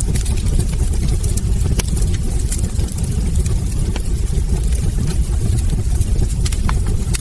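Wood fire burning in a hearth: a steady low rumble of the flames with scattered sharp crackles and pops from the burning logs, one louder pop near the end.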